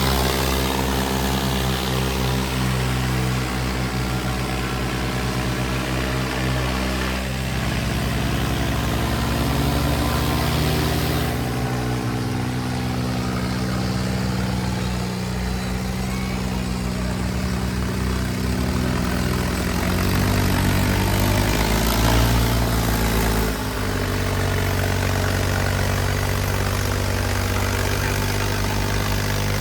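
Diesel tractor engines running under heavy load, with shifts in engine pitch a few times, around a quarter and a third of the way in and again near the end.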